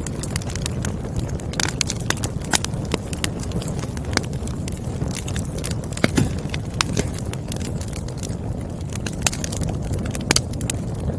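Wood fire crackling: burning logs give a steady low rumble of flame with many irregular sharp pops and snaps, a few louder ones about six and ten seconds in.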